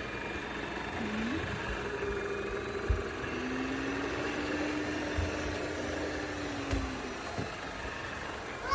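Yeedi M12 PRO+ robot vacuum running, a steady motor hum with a few faint knocks.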